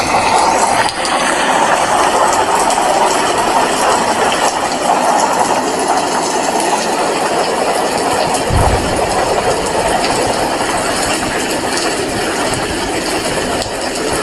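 Heavy rain falling steadily: a loud, dense, even hiss. There is one brief low thump a little past the middle.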